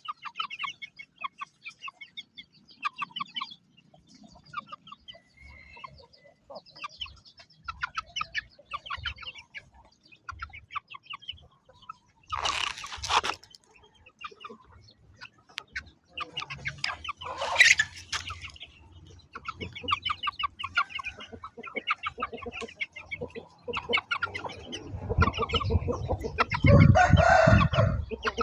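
Chickens clucking in quick runs of short calls, with a louder, longer call twice near the middle. Heavier low rustling and scuffling builds up near the end.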